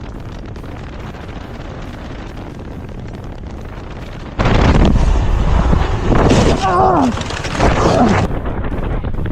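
A steady rushing noise, then, about four seconds in, a sudden loud crash of noise from a motorcycle accident, followed by people yelling.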